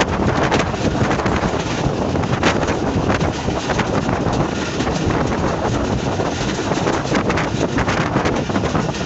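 Wind rushing over a microphone held out of a moving passenger train, over the train's steady running noise on the track.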